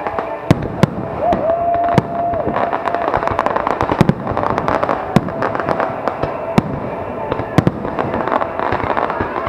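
Aerial fireworks display: shells bursting in a rapid run of sharp bangs over continuous crackling. About a second in, a held steady tone sounds for about a second.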